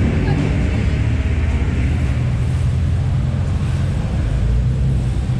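A car engine running steadily: an even low drone with no revving.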